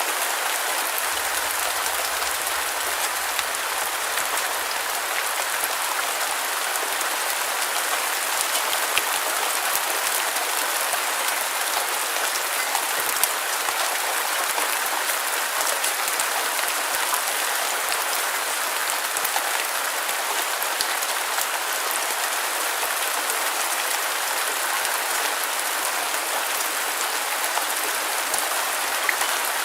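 Steady rain falling: an even, dense hiss of drops with scattered fine ticks of single drops, unchanging throughout.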